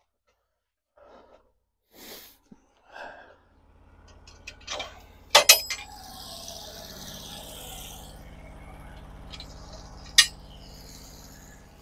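Steady low engine hum with several sharp metallic clanks: a loud double clank about halfway through and a single one near the end.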